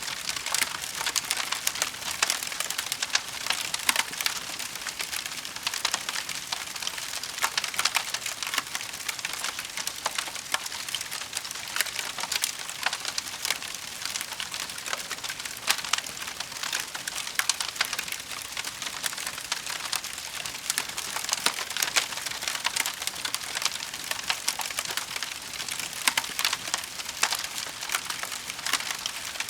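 Wood fire burning in a fireplace, crackling steadily with many sharp pops and snaps over a soft hiss.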